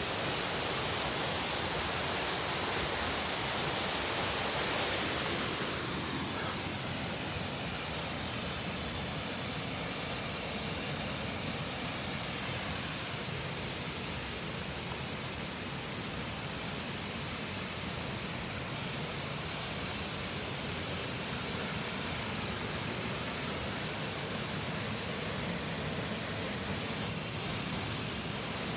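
A 32-metre single-drop waterfall in heavy flow after winter rain: a steady, even rush of falling water, slightly louder for the first five seconds or so.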